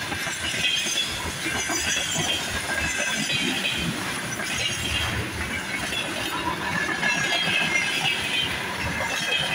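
Freight train of empty container flat wagons rolling past close by, wheels clattering over the rail joints with a high squeal that comes and goes.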